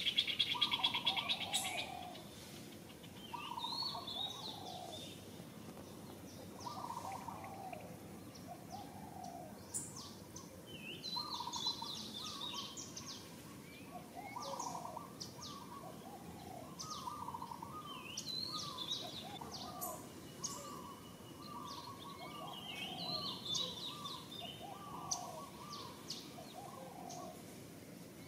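Several birds calling. A short two-part call, its second part lower than the first, repeats every second or two, with higher chirps and whistles over it. A loud, fast, high buzzing trill fills the first two seconds.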